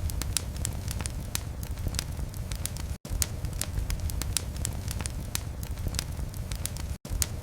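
Wood fire crackling in a fireplace: frequent sharp pops and snaps over a steady low rumble of flame. The sound cuts out for an instant about three seconds in and again near the end.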